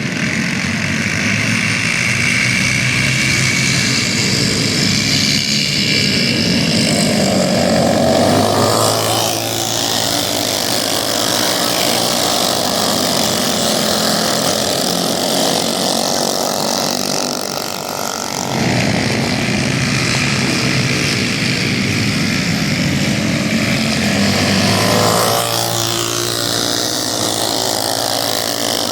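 Several racing minibikes' small engines running hard, their notes rising and falling together as they accelerate and back off around the track. The sound drops briefly a little over halfway through, then swells again as the bikes come back near.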